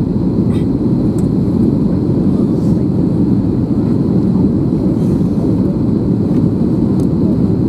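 Steady roar of an Airbus A321 in flight, engine and airflow noise heard from inside the passenger cabin, deep and unchanging.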